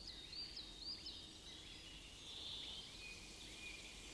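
Faint birdsong. A bird repeats a short high note about twice a second, and a lower series of longer notes comes in about two-thirds of the way through.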